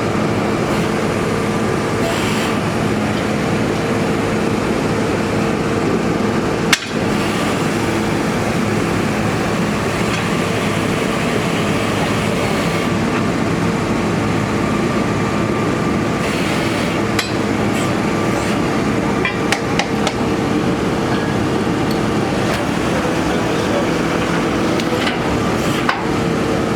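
A borehole drilling rig's engine running steadily under load, with occasional sharp metallic clanks as the drill rods and bits are handled. The loudest clank comes about a quarter of the way in, and a few lighter knocks follow later.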